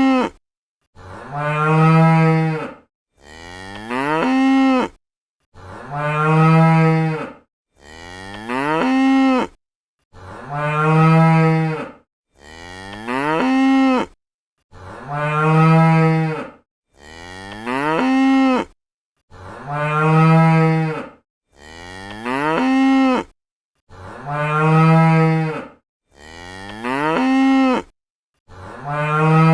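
Cow mooing again and again, a call about every two seconds with silence between. Long low moos alternate with shorter moos that rise in pitch at the end.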